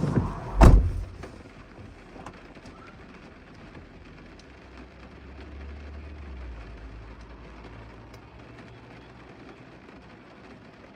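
A heavy thump less than a second in, then a steady hiss of rain, with a low hum that swells and fades around the middle.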